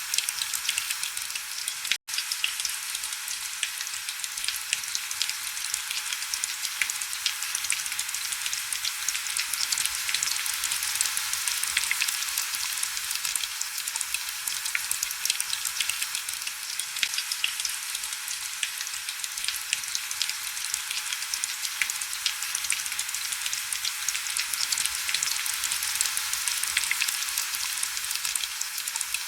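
Steady heavy rain: a dense, even hiss of countless small drop ticks, with no low rumble. It cuts out for an instant about two seconds in.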